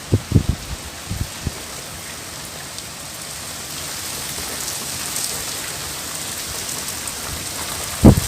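Steady rain falling, an even hiss, with a few short low thuds in the first second or so and a loud thud near the end.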